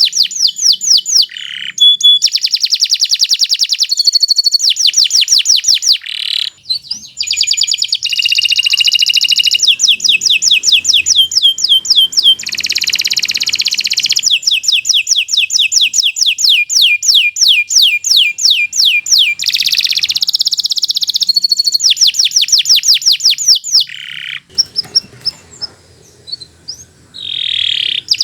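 Domestic canary singing a long, loud song of high, rapid trills: phrases of quickly repeated notes that change from one trill to the next, with two short breaks in the song.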